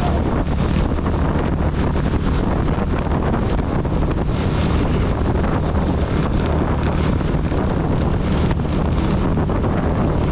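CB 250 motorcycle engine running at a steady cruise, under wind buffeting the camera microphone and the hiss of heavy rain.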